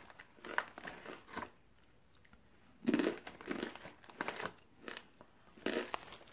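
Crunchy barbecue-flavoured Corn Nuts (roasted corn kernels) being bitten and chewed close to the microphone, crunching in several bursts with short pauses between.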